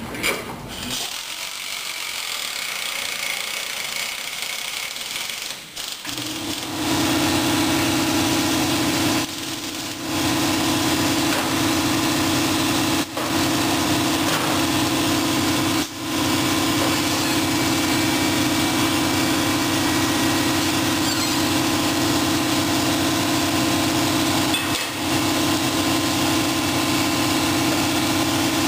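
Scooter engine idling steadily. It comes in suddenly about seven seconds in, after a stretch of quieter hiss, and drops out briefly a few times.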